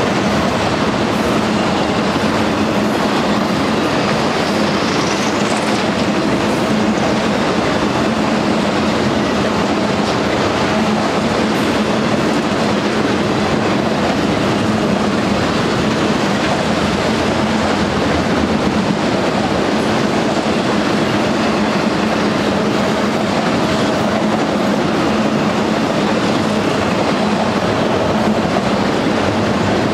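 Auto-rack freight cars rolling past, their steel wheels on the rails making a loud, steady rolling noise.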